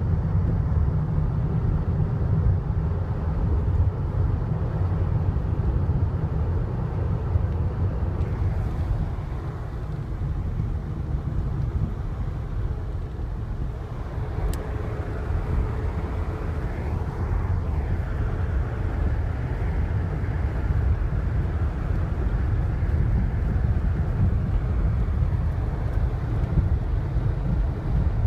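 Blizzard wind buffeting the microphone: a loud, steady, low rumble of wind noise.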